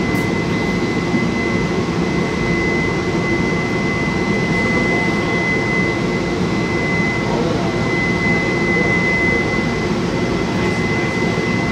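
MBTA commuter rail coach heard from inside while the train rolls along the track: a steady low rumble and hiss, with a constant high-pitched tone over it.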